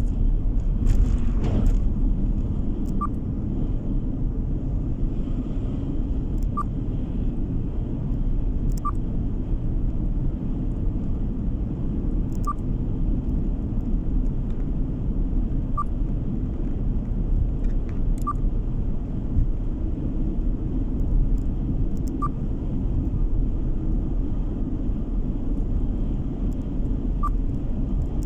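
Steady low road and engine rumble heard from inside a moving car, with faint short ticks every few seconds.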